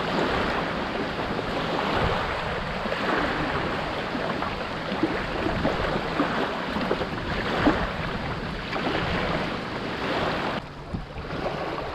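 River water splashing and lapping, a steady rushing noise with small splashes scattered through it and some wind on the microphone.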